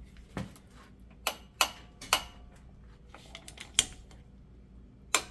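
Sharp metallic clicks, about half a dozen spread unevenly, from a socket wrench working the 13 mm brake caliper bolts loose.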